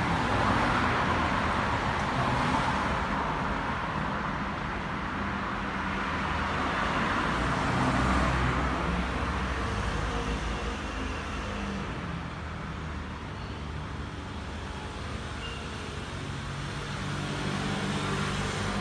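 Motor vehicle noise: a low steady engine hum under a hiss that swells and eases.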